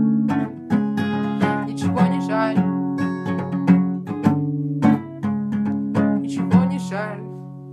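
Acoustic guitar playing picked and strummed chords, the song's closing accompaniment after the singing has stopped, fading down near the end.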